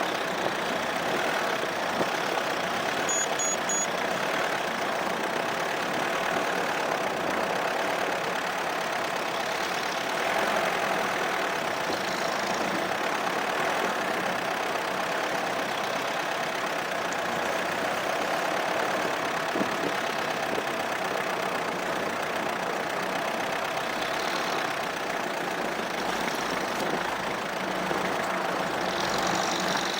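Opel Monterey (Isuzu Trooper) engine running steadily under a constant hiss of driving noise, heard from a camera mounted on the car.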